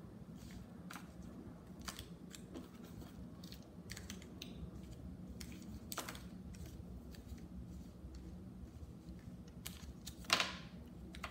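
Scattered soft clicks and crinkles from handling and eating a small foil-wrapped Hershey's Special Dark chocolate, with a louder rustle about ten seconds in.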